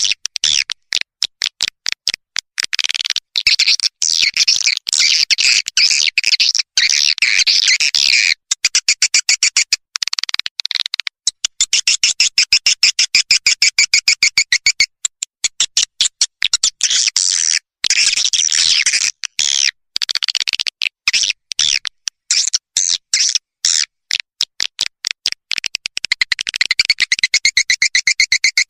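Swiftlet lure recording: swiftlet calls, high twittering chirps in fast runs of rapid pulses with brief breaks.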